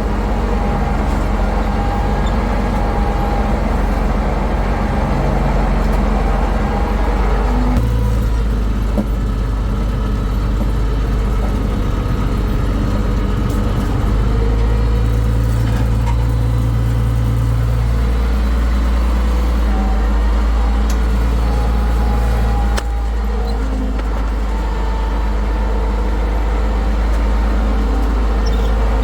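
International 1066 tractor's diesel engine running steadily, its note shifting several times as the load changes, with a sharp click about three quarters of the way through.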